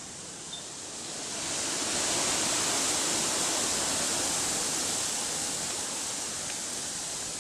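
A gust of wind rushing through the forest's leaves: a steady hiss that swells about a second in, holds, then slowly eases.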